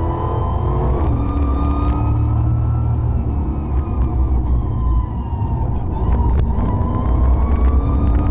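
Tomcat off-road rally car's engine running under load from inside the cabin, its pitch rising and falling as the driver works the throttle and gears over a heavy low rumble. A single sharp knock sounds about six seconds in.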